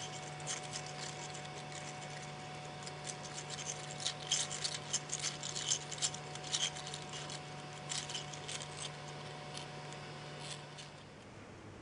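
A steady low machine hum with a faint higher tone, over which come many short, sharp irregular clicks and ticks, thickest in the middle. The hum stops about eleven seconds in.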